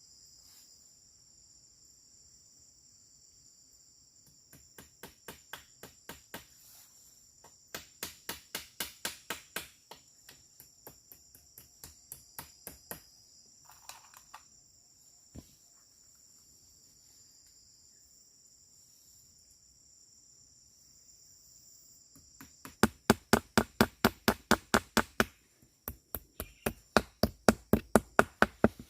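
Rapid, evenly spaced knocks, about five a second, in several runs that grow louder toward the end, like hammering or chopping at camp work. Underneath, insects such as crickets keep up a steady high buzz, which fades near the end.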